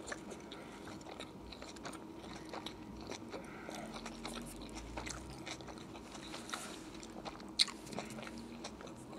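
A person chewing a mouthful of roast beef sub sandwich: a string of small, soft clicks and smacks, with one louder click near the end.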